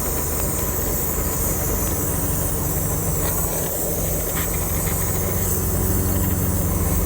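A steady low mechanical drone with a hiss over it, unchanging in level, like a machine or engine running.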